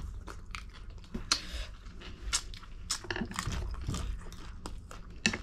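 Close-up eating sounds: chewing and slurping spicy ramen noodles and prawns, with many short wet clicks and smacks.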